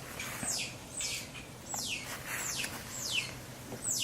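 A bird calling: a short, high, falling chirp repeated steadily about one and a half times a second, over a faint low hum.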